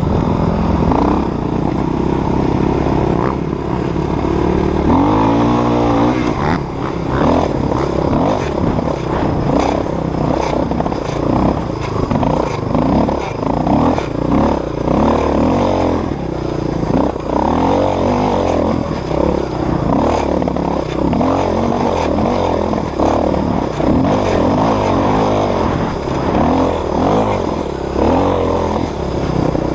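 Dirt bike engine being ridden hard, revving up and falling back over and over as the throttle is worked. There is one long climb in pitch at about five seconds.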